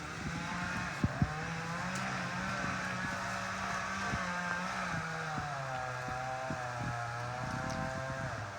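A small engine running steadily, its pitch wavering slightly and dropping near the end, with two sharp knocks about a second in.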